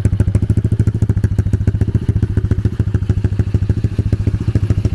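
Dirt-bike engine of a drift trike idling steadily with an even, choppy beat of about a dozen pulses a second, with the trike's sheet metal rattling along with it.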